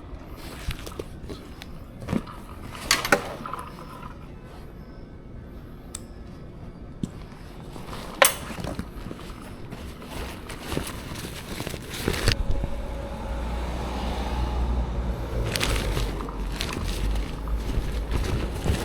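Scattered clicks and knocks of gear being handled, then about twelve seconds in a Honda CL500's parallel-twin engine starts and settles into a steady, low idle.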